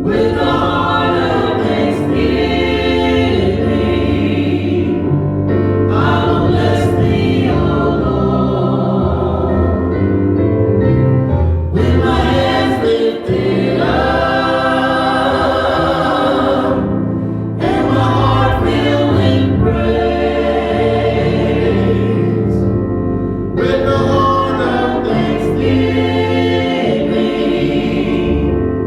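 Church choir singing a gospel song in long sustained phrases over a steady low accompaniment.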